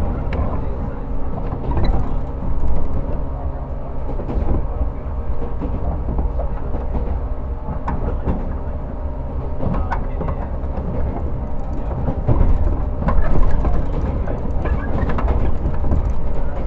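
Interior running sound of a JNR 115 series electric multiple unit, heard in a MoHa 114 motor car: the MT54 traction motors and gearing hum steadily at an even speed over a heavy rumble, with occasional clacks of the wheels over rail joints.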